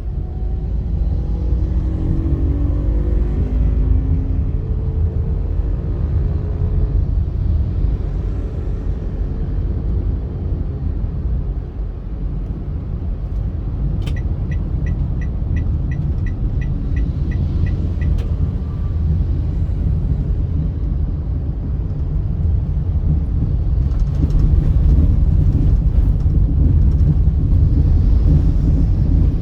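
A car driving on a highway: steady engine and tyre rumble, with the engine note rising in the first few seconds. About halfway through there is a run of about ten evenly spaced ticks lasting some four seconds.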